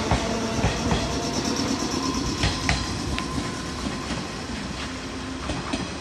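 A JR 115 series electric train pulling out and running away along the track, its wheels clacking over rail joints with a few sharp clacks midway. The sound slowly fades as it recedes.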